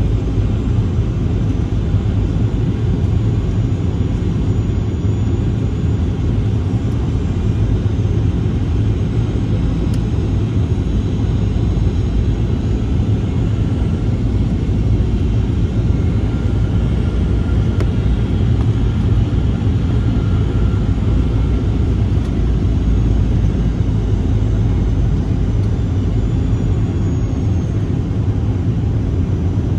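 Jet aircraft engines running at an airport: a steady low rumble with a faint whine that drifts slightly in pitch around the middle.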